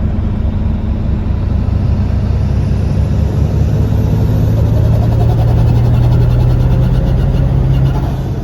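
2003 Ford 7.3 L Powerstroke turbo-diesel V8 running while driving. Its drone builds over the first several seconds and eases off near the end, and a faint high whine rises slowly in pitch.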